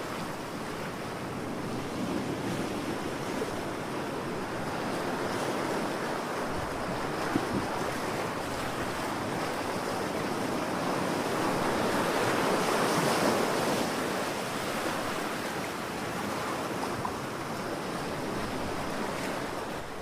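Ocean waves washing in, a continuous rushing wash with one wave swelling louder a little past halfway.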